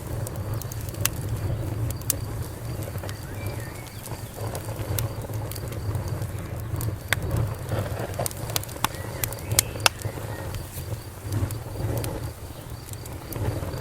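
Wood campfire crackling, with irregular sharp pops throughout over a steady low rumble, a couple of the pops louder past the middle. Crickets chirp steadily and high in the background, and a bird calls briefly a few times.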